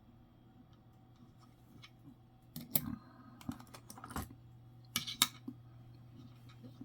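Metal coins clicking and tapping as they are handled and set down on a hard surface: a cluster of clicks about three seconds in and a louder pair about five seconds in, over a faint steady hum.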